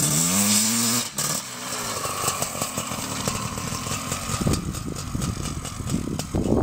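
Honda CR500 single-cylinder two-stroke motocross engine under load, its note rising as the bike accelerates, with a brief cut about a second in at a gear change. After that it runs quieter and rougher as the bike pulls away across the field. The engine is being run in.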